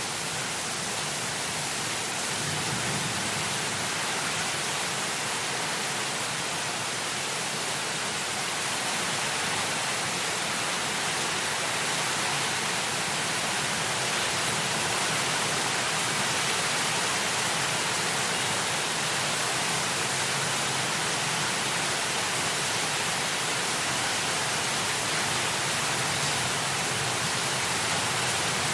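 Heavy rain falling in a steady, even hiss, with a faint low rumble underneath; no claps of thunder.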